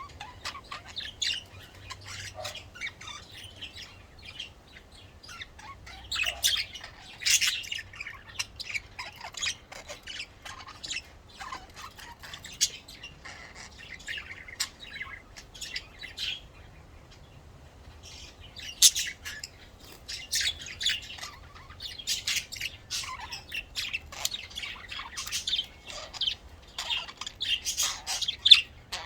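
Budgerigars chirping and warbling in quick runs of short, high chirps, with a short lull about two-thirds of the way through.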